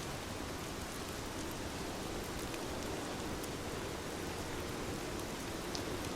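Heavy rain falling steadily, an even hiss with scattered individual drops ticking on a surface.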